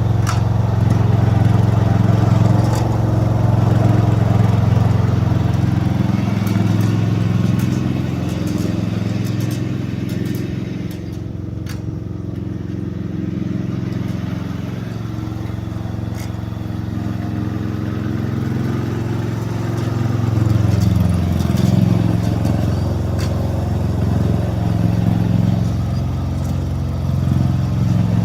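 MTD snowblower's single-cylinder engine running steadily. Its pitch sags and recovers twice as the load changes, with a few light clicks and rattles over it.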